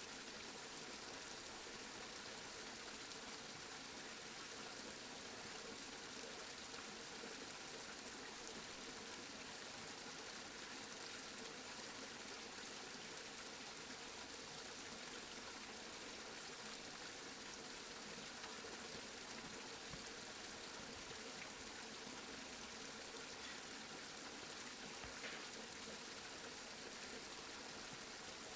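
Steady rain, an even hiss of falling drops with a few faint separate drop ticks.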